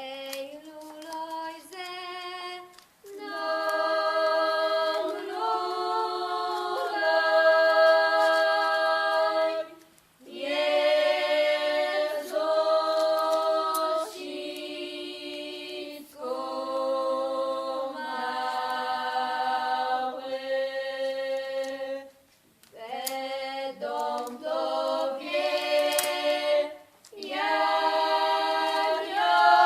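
A cappella choir singing slow, held chords in phrases of a few seconds, with brief pauses between them.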